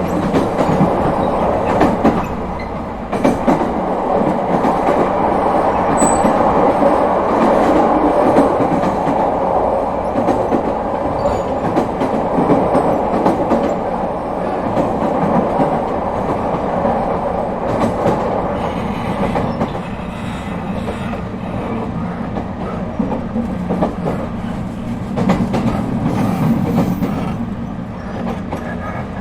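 Echigo Tokimeki Railway ET127 series electric train running along the line: a steady rumble of wheels on rail, with the clickety-clack of rail joints and occasional short knocks.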